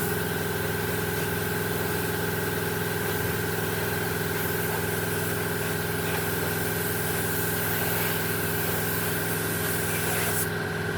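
A motor-driven machine, likely a workshop power tool, running steadily at constant speed, giving a hum with a hiss.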